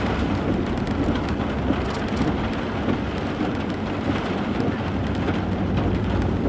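Steady noise inside a moving car: a low engine hum under an even hiss of road noise.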